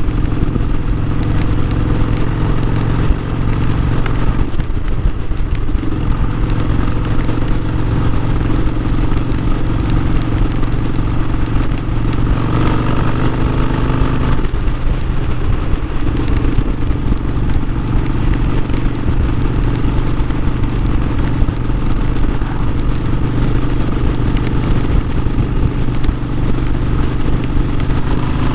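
Harley-Davidson Sportster 1200's air-cooled V-twin engine running steadily while riding. Its pitch rises for a couple of seconds about halfway through, then drops back.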